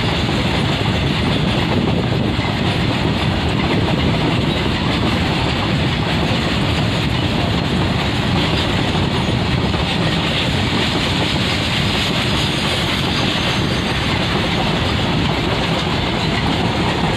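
Goods train running through a station at speed without stopping: the steady, loud noise of its wagons' wheels rolling on the rails.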